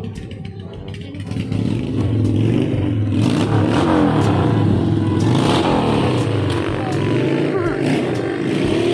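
Motor vehicle engines running and revving close by, a loud low rumble that grows louder about two seconds in.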